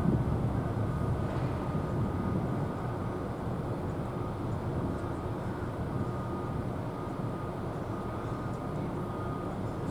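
Steady outdoor background rumble, a little louder in the first couple of seconds, with a faint high tone that comes and goes.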